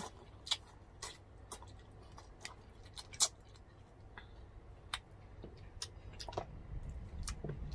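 Close-miked chewing and mouth sounds of people eating rice and fish by hand: scattered short, wet clicks and smacks, the sharpest about three seconds in.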